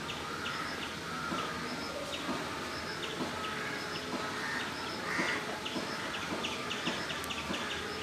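Small birds chirping: many short, high chirps repeating irregularly over a steady outdoor background hiss.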